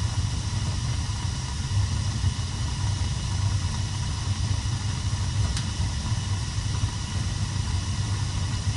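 Gas water heater burner firing: a steady low rumble and roar of combustion with an even hiss above it.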